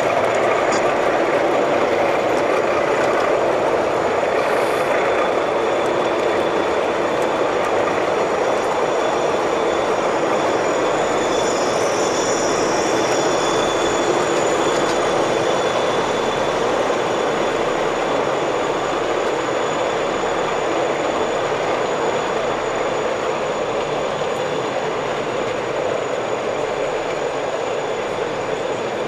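O gauge model train running on the layout: a steady running noise that slowly eases toward the end.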